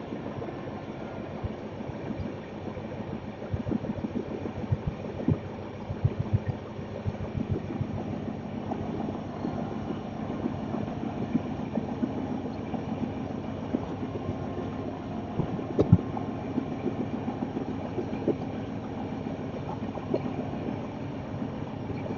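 Passenger train running: a steady rumble with frequent irregular rattles and knocks, and one sharper knock about two-thirds of the way through.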